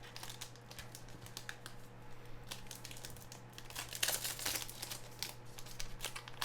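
Sports card pack wrappers crinkling and tearing as packs are opened and cards handled: scattered short crackles, busier about four seconds in, over a faint steady hum.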